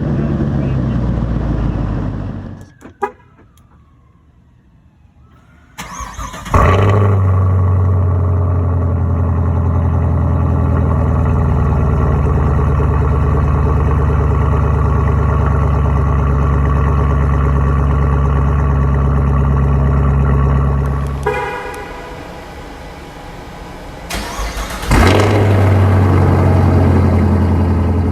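2019 Camaro SS's 6.2-litre V8, with its muffler and secondary catalytic converters removed, starting about six seconds in with a sharp flare and settling into a loud, steady idle. It drops away about three quarters of the way through and fires up again with another flare near the end.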